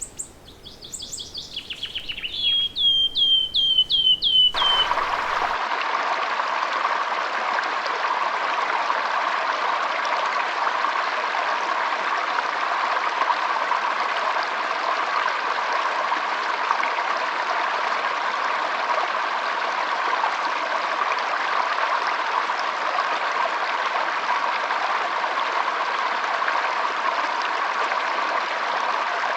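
A songbird sings a short song of high notes stepping down in pitch, ending in a quick run of repeated notes. About four and a half seconds in, this cuts abruptly to the steady rushing of a stream.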